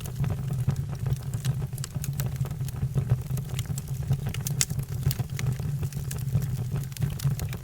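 Fire burning, with irregular sharp crackles and pops over a steady low rumble.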